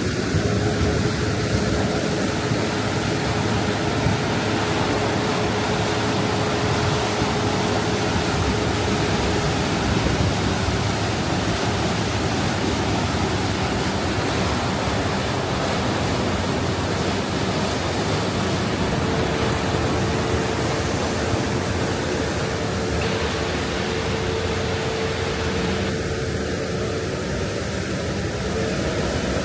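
Uber Boat river bus underway: a steady rush of engine and water noise with a constant hum running through it. Near the end the engine tone rises in pitch.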